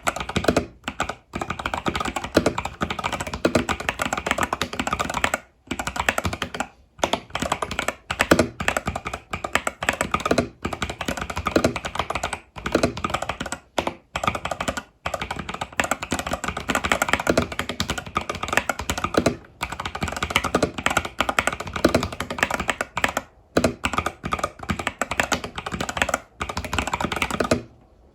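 Fast continuous typing on an Epomaker TH80 Pro mechanical keyboard with Epomaker Budgerigar tactile switches and stock keycaps: a dense run of key clacks, broken by a few short pauses.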